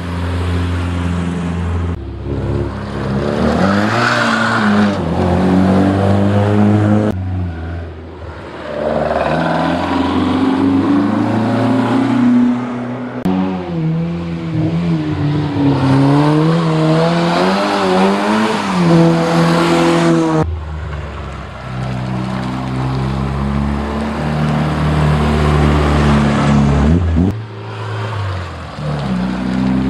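Engines of classic rally cars, among them a BMW 02-series saloon and a classic Mini, accelerating one after another through a hairpin bend, each rising and falling in pitch through the gears. The sound changes suddenly every few seconds as one car's pass gives way to the next.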